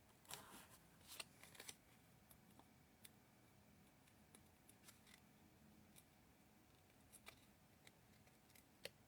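Near silence broken by faint, scattered clicks and small rustles of paper and adhesive tape being handled, with a short cluster of crinkles in the first two seconds.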